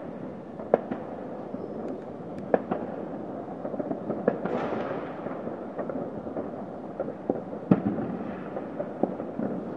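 Fireworks and firecrackers going off: a steady background of many distant bangs, with a few sharp, louder bangs, the loudest near the end. A hissing crackle runs through the middle.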